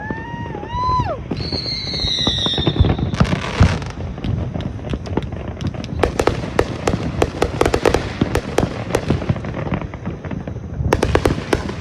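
Fireworks going off. Two whistling tones sound in the first three seconds, one wavering and one gliding down, followed by a long run of rapid crackling and popping bursts.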